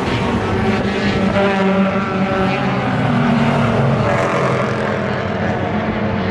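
Race car engines running hard on a road course: a loud, continuous engine note whose pitch drifts down slightly about halfway through.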